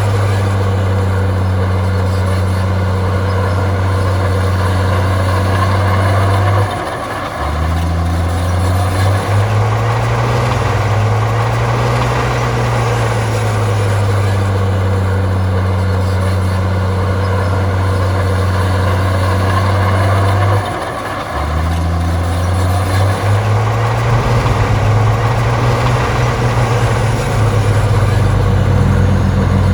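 Heavy diesel engine of earthmoving machinery running hard and steadily. Twice the engine note dips briefly and then climbs back up.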